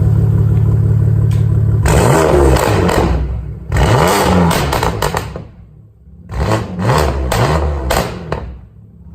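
BMW F80 M3's twin-turbo inline-six, breathing through a non-resonated AWE track exhaust and catless downpipes, idles steadily and is then revved. It gives two longer revs that rise and fall, then a quick series of short throttle blips near the end. It is very loud.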